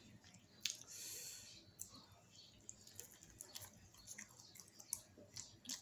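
Faint chewing and mouth sounds of a person eating a chicken wing, with scattered small clicks and a brief soft hiss about a second in.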